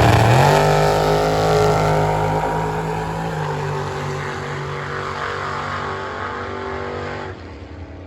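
Drag racing car's engine at full throttle, its pitch climbing in the first half second and then holding, fading steadily as it pulls away. The sound stops abruptly about seven seconds in.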